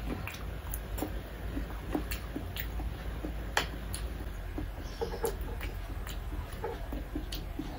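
Close-miked chewing and lip-smacking of a person eating a cucumber slice: irregular wet clicks and smacks, with one sharper click about three and a half seconds in.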